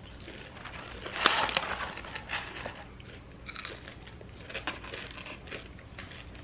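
Curly fries being chewed and crunched close to the microphone: irregular crunches, loudest about a second in.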